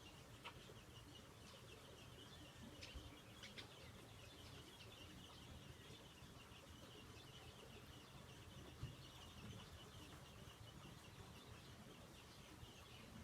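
Faint chirping of small birds over a steady low background hiss, with a few short, sharper calls in the first few seconds.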